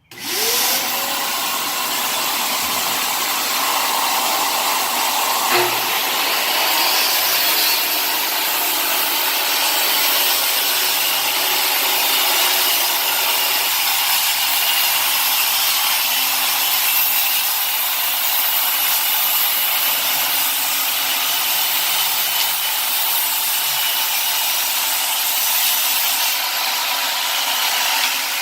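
Circular saw cutting wood, with a shop vac hose taped to the saw's dust exhaust drawing off the sawdust. Both motors run as one loud, steady noise that starts suddenly, spinning up to a steady hum within the first second.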